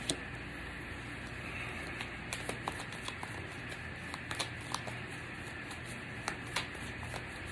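Tarot cards being shuffled by hand: scattered, irregular light clicks and snaps of the cards over a steady background hiss.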